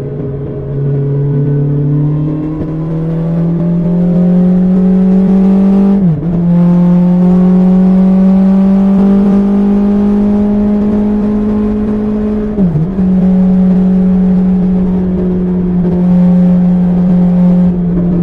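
BMW S1000XR's inline-four engine through an Akrapovic exhaust under acceleration, its note rising, then dropping sharply for two quick upshifts about six and twelve seconds in, after which it holds a fairly steady pitch.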